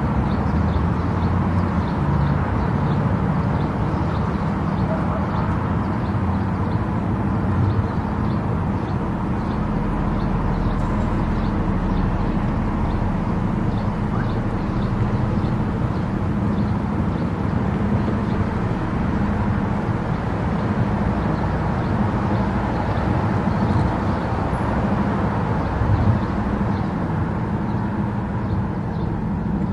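A car cruising on an expressway: steady low tyre and engine rumble that holds at an even level throughout.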